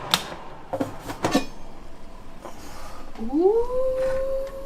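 A few sharp clicks, then a long drawn-out vocal 'ooh' that rises in pitch, holds steady and then falls away.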